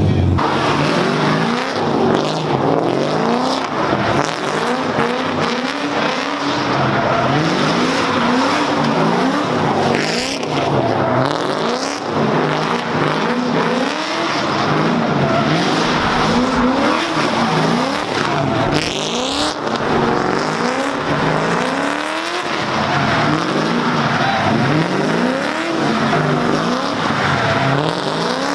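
Cars drifting in circles: engines revving up and down over and over, with tyres squealing throughout.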